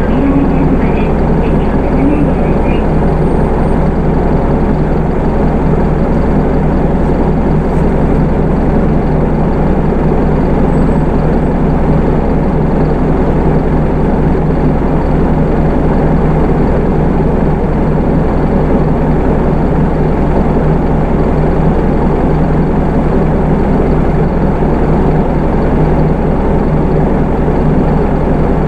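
Hino Rainbow II bus's Isuzu 4HK1 four-cylinder diesel engine running steadily, heard from inside the passenger cabin, with a constant low drone and road noise and no clear rise or fall in engine speed.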